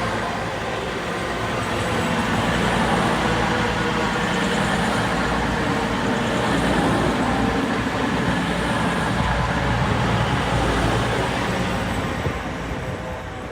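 East Midlands Railway Class 222 diesel multiple unit running through the station, its diesel engines and running gear making a loud, steady noise that fades near the end.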